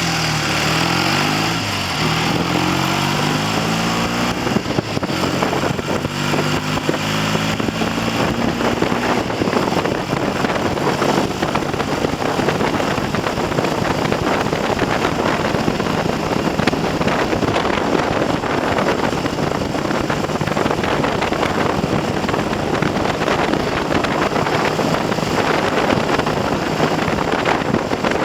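Triumph TR6 motorcycle's 650 cc parallel-twin engine pulling along under light throttle, its pitch rising and dropping through the gears for the first several seconds. Wind buffeting on the microphone then takes over and mostly drowns the engine out.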